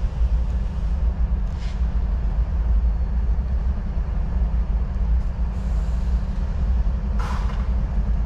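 Train rumbling low and steady, with a brief higher hiss about seven seconds in.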